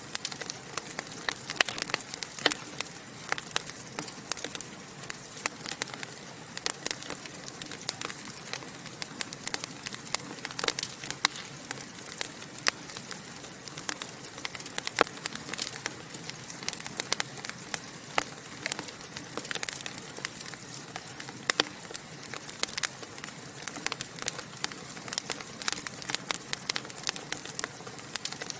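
Wood fire burning in a fireplace, crackling and popping: a constant run of irregular sharp pops over a soft steady hiss of flames.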